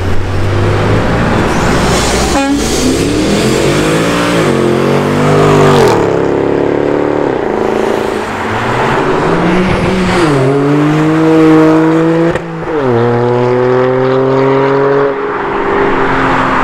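Loud performance-car engine accelerating hard, its note climbing then dropping sharply several times as it shifts up through the gears.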